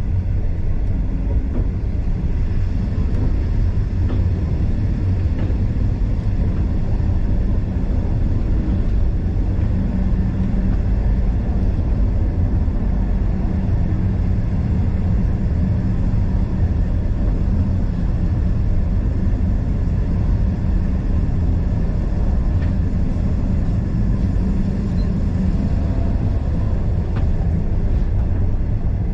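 Steam excursion train's carriage running along the track, heard from a carriage window: a steady, loud low rumble of wheels on rail with no clear beat.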